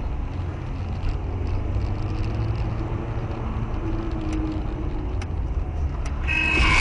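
Car driving, a steady low rumble of engine and road noise. Near the end a high steady tone starts and the sound grows louder.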